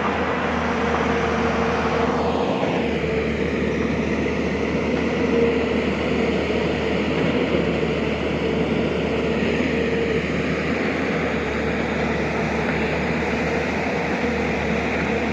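Diesel engine of heavy earthmoving machinery running steadily under work, a constant drone with a held hum.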